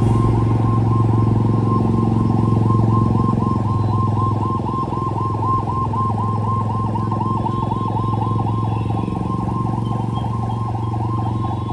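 Motor vehicle engine running steadily close by: a low hum with a rapid, evenly repeating warble above it.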